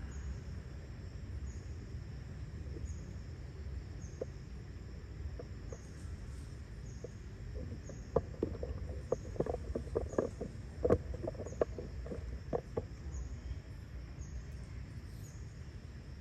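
Outdoor ambience with a steady low rumble and a faint high chirp repeating about once a second, and a burst of sharp clicks and knocks in the middle.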